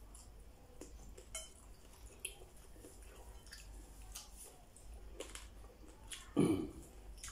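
Close-up mouth sounds of a man chewing pork chop with his mouth open: soft wet smacks and clicks, with one short, louder throat sound with a falling pitch about six seconds in.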